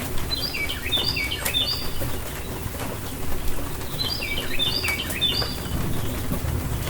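A songbird repeating a short call that steps down in pitch, in two groups of three about three seconds apart, over the steady low rumble of a rainstorm.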